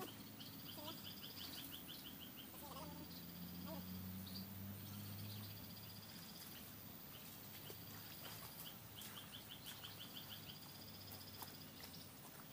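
Faint outdoor wildlife: a rapid run of about ten high chirps heard twice, over a steady high insect buzz and a few small calls, with a low hum swelling in the first half.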